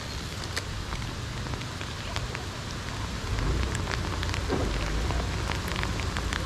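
Heavy rain falling, an even hiss with many individual drops ticking sharply. It grows louder about three seconds in.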